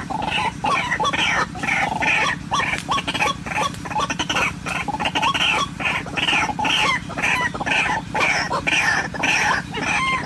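White-breasted waterhen calling: harsh, clucking calls repeated rapidly and without pause, about two to three a second, over a steady low hum.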